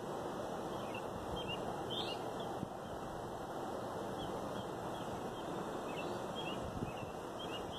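Many short, faint bird chirps scattered over a steady outdoor background noise.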